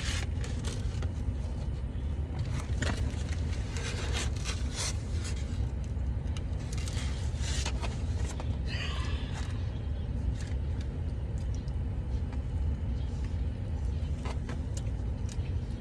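Steady low rumble of a running car heard inside the cabin, with scattered clicks and rustling from handling food packaging, busiest in the first half and with a longer rustle about nine seconds in.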